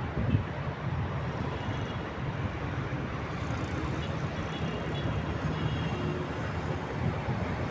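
Steady city traffic noise, a continuous low hum of road vehicles.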